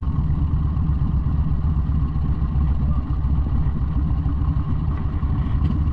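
Motorcycle engine running steadily, its sound sitting low and pulsing fast without a pause.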